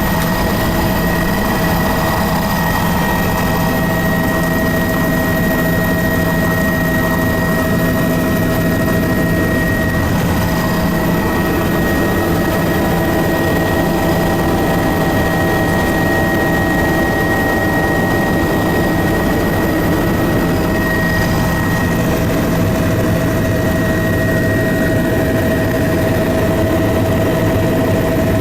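Steady drone of an aircraft's engine in flight, with several constant hum tones over a loud rushing noise. A high whine fades out about three quarters of the way through.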